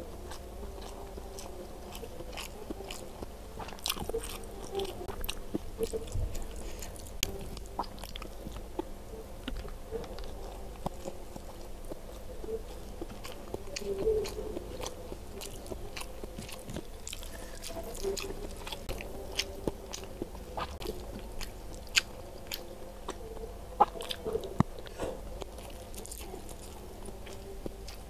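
A person chewing mouthfuls of nasi Padang rice and side dishes close to a small microphone, with many short, sharp crunches and mouth clicks.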